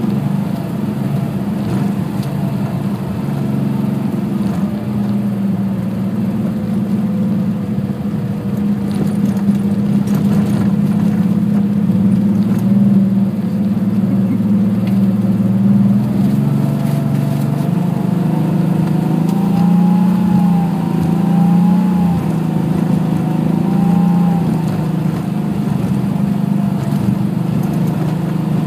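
Car engine running continuously under load, heard from inside the cabin while driving on snow and ice. Its pitch sinks slowly, then rises and wavers about two-thirds of the way through as the throttle changes.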